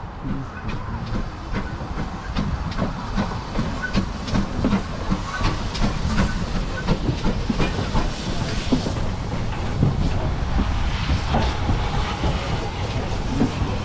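Heritage steam train running on the line, with steady rumble and many sharp clicks from the wheels on the track, and hissing steam that swells twice in the second half.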